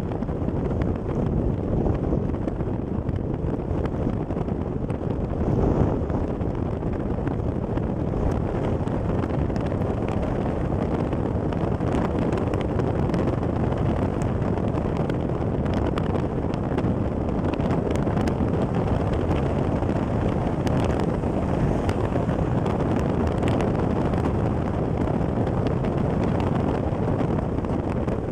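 Wind buffeting the microphone: a steady low rumble with a few faint ticks scattered through it.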